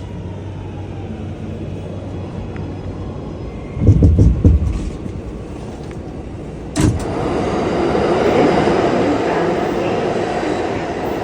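New York City subway train: a steady low rumble, a loud low thumping about four seconds in, then a sharp bang a few seconds later, after which a louder, steady rushing noise of the train running takes over.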